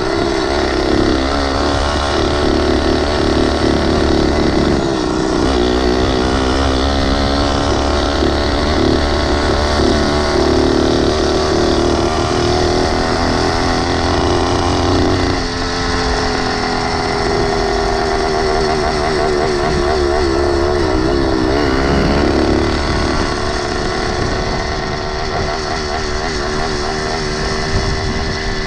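Small gasoline engine of a motorized 20-inch bicycle running under way, its pitch rising and falling with the throttle.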